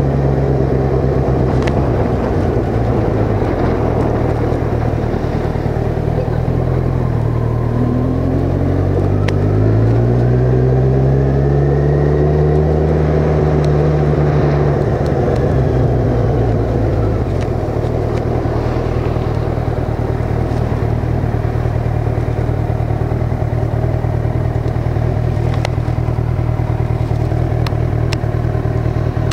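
Kawasaki Ninja 1000's inline-four engine running while the motorcycle is ridden at low speed. About eight seconds in the revs rise. They hold for a few seconds and fall back after about fifteen seconds, then the engine runs on at a steady, lower note.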